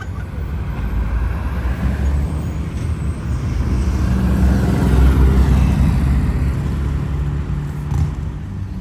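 A car engine running with low road rumble, swelling to its loudest about five seconds in and then easing off.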